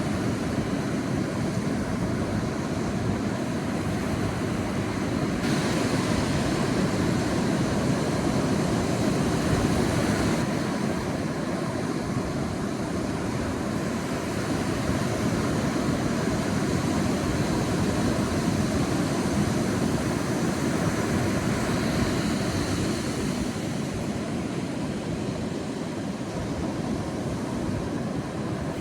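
Sea waves breaking and washing up a beach in a continuous rush of surf that swells and eases gently. A brighter hiss rides over it from about five to ten seconds in, then drops away sharply.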